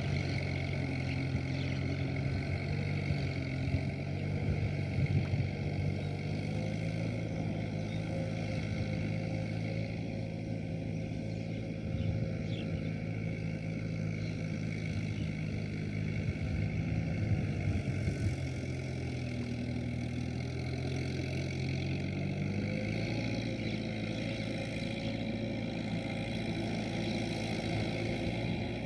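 Kubota M7040SU tractor's diesel engine running steadily under load while ploughing. Its note drops about two-thirds of the way in, then rises again a few seconds later.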